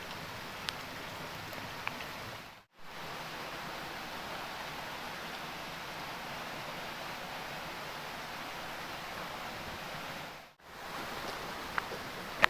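Heavy rain falling steadily as an even hiss, with a few sharp drips near the start and again near the end. The sound cuts out briefly twice, about three seconds in and shortly before the end.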